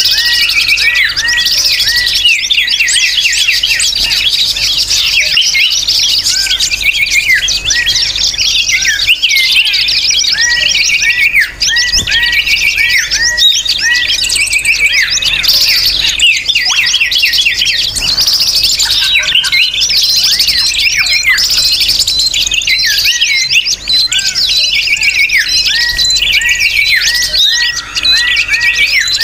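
A dense chorus of many small birds chirping and twittering at once, with overlapping short calls and trills and no let-up. It is a bird-lure (pikat) recording, used to draw wild birds in.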